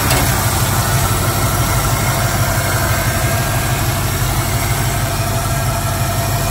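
1966 Ford Mustang's 289 V8, fitted with Hooker headers and an Edelbrock four-barrel carburetor, idling steadily with the hood open.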